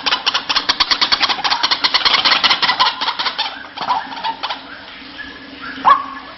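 White-breasted waterhen (ruak-ruak) calling: a fast run of harsh repeated notes, about ten a second, for roughly three and a half seconds, then a few scattered notes and one loud call near the end.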